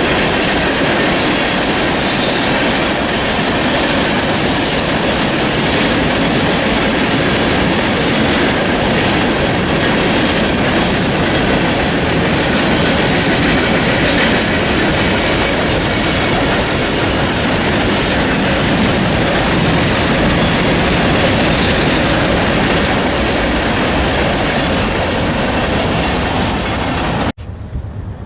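Freight train cars rolling past, loud and steady, with wheels rumbling and clacking on the rails. Near the end the sound cuts off abruptly to quieter wind noise.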